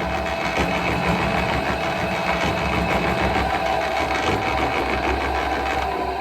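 A motor or small engine running steadily.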